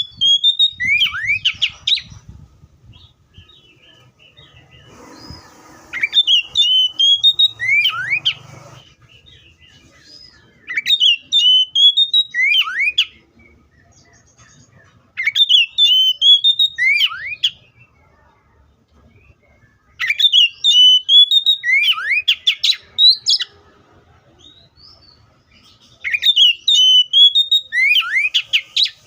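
Oriental magpie-robin singing: the same short whistled phrase of rising and sweeping notes, about two to three seconds long, repeated six times with pauses of a few seconds between.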